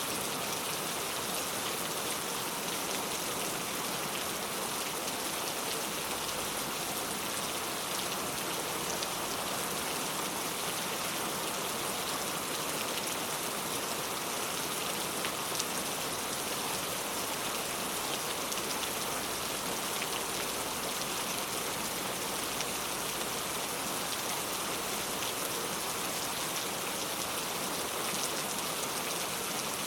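Heavy rain falling steadily, a dense even hiss with countless close drop patters.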